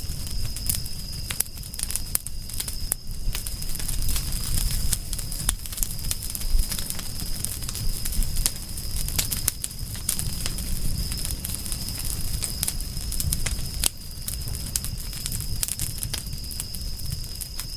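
Wood fire crackling, with frequent irregular pops and snaps over a low rumble of the burning. A faint steady high tone runs underneath.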